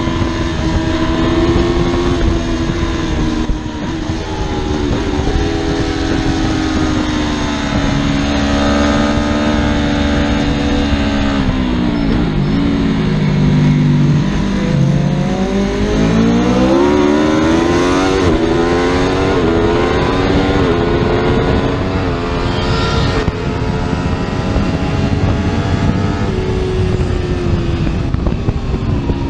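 Superbike engine running under way. Its pitch sags low about halfway through as it slows, then climbs again as it accelerates.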